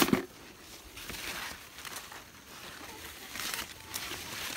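Green corn husks and leaves rustling and crackling as ears of corn are handled, with a sharp crack right at the start and scattered short rustles after it.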